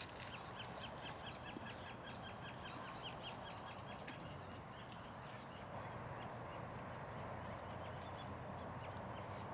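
A small bird chirping: a quick run of short high notes, about five a second, for the first three seconds, then scattered chirps over a faint steady outdoor background.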